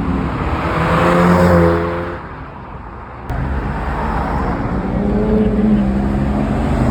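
Cars driving out past the camera one after another, their engines pulling away with a steady engine note. The sound drops away for about a second, two seconds in, and comes back with a sharp click before the next car's engine note builds.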